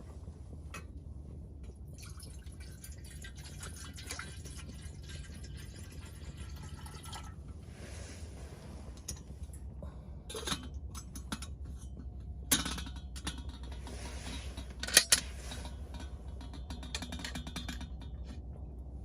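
Cookware being handled: a few sharp clinks and knocks, the loudest about twelve and fifteen seconds in, with some liquid sounds, over a steady low hum.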